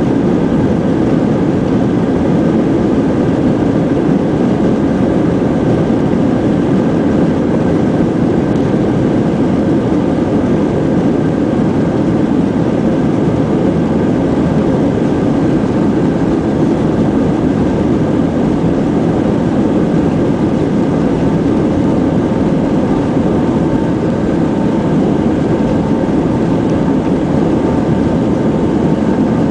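Airbus A320 jet engines and airflow heard from inside the passenger cabin during departure: a loud, steady, even rush with a few faint steady whining tones over it.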